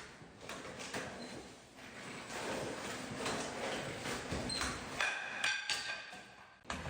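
A fighting robot moving and sparring: scattered mechanical clicks and knocks, with a brief motor whine about five seconds in.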